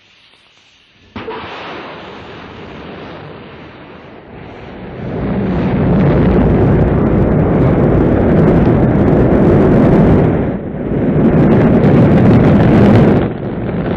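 Rocket engines at launch: a loud noise that starts suddenly about a second in and grows louder at about five seconds, with two brief dips near the end.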